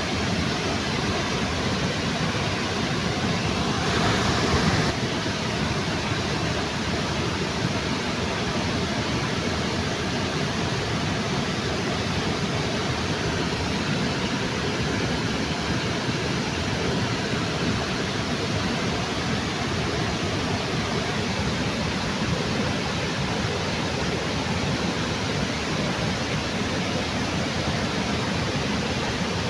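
Waterfall under a bridge: a steady, even rush of falling water, briefly louder for about a second some four seconds in.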